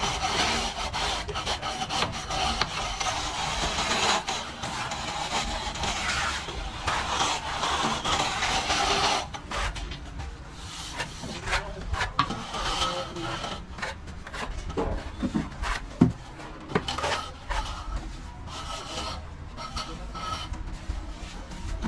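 Plastering tool rubbing and scraping across a wall: a steady rubbing stroke for about the first nine seconds, then shorter, separate scrapes with a few knocks, one sharp knock about 16 seconds in.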